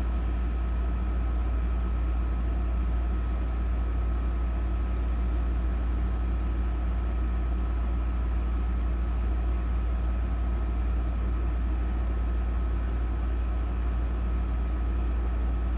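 Steady low mechanical hum with an even hiss, a faint constant whine and a thin, high, fast-pulsing trill above it, unchanging throughout.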